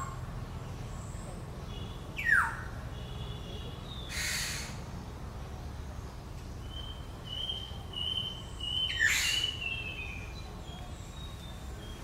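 Black-hooded oriole calling: a loud downward-sweeping call about two seconds in, a harsh rasping squawk about four seconds in, and another falling call with a rasp about nine seconds in. Thin high drawn-out notes sound between them.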